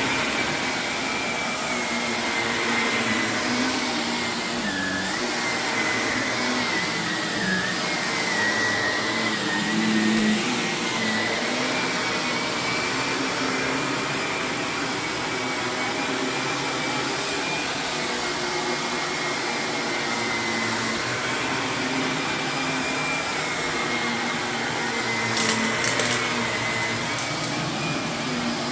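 Vacuum cleaner running steadily, a rushing roar with a high motor whine that wavers slightly in pitch. Near the end there is a quick cluster of sharp clicks, like grit or debris crunching up through the vacuum.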